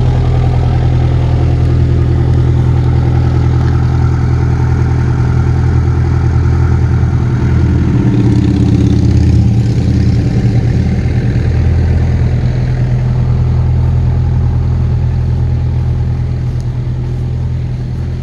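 1984 Ford Ranger's diesel engine idling steadily.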